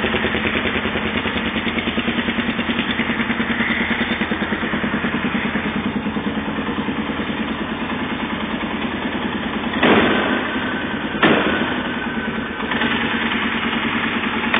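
Polaris 500 X2 ATV engine idling through a GPR aftermarket muffler, a steady rapid exhaust pulse. Two short throttle blips come about ten and eleven seconds in, then the idle picks up slightly near the end.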